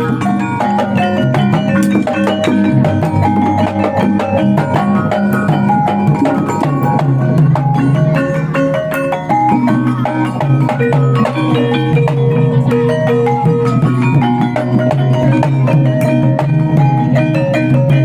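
Gamelan ensemble playing: bronze metallophones strike quick runs of short ringing notes over steady drumming.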